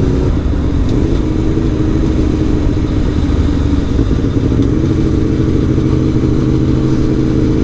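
Aprilia Tuono V4 1100 Factory's V4 engine running steadily while cruising, its pitch lifting slightly about a second in and again near five seconds.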